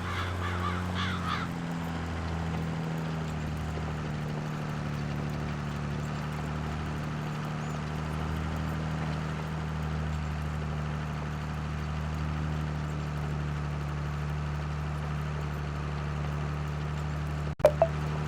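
Tractor engine running steadily at an even speed, with a few short high-pitched calls in the first second or so and a sharp click with a brief break near the end.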